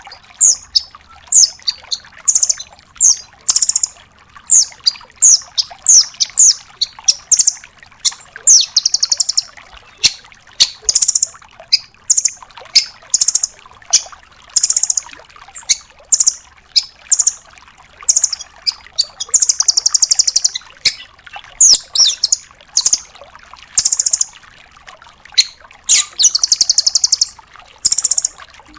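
Velvet-fronted nuthatch singing: quick series of high, sharp, falling notes, broken every few seconds by a rapid trilled burst of about a second, the 'tembakan' rattle prized in masteran recordings.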